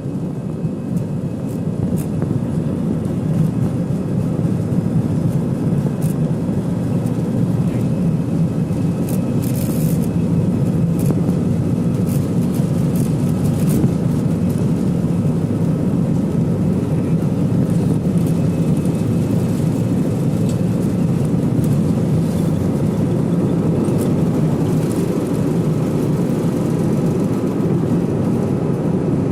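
Airbus A320 jet engines: a steady low noise that builds over the first few seconds and then holds, with faint high whining tones above it.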